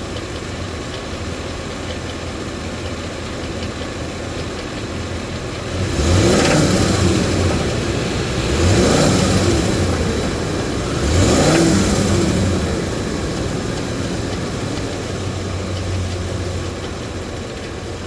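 Ford 5.4-litre Triton V8 of a 2011 E350 van idling, then revved three times, each rev climbing and dropping back to idle. It is being revved to listen for an engine knock, which the inspector reports hearing at about 2,000 rpm.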